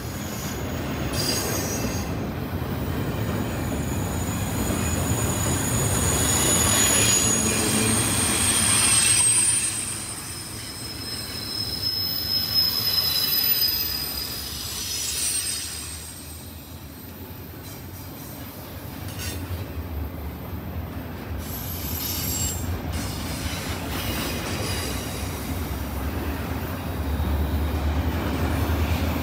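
Freight train rolling past, its steel wheels squealing high against the rails in several overlapping tones through the first half. A deeper low rumble builds near the end.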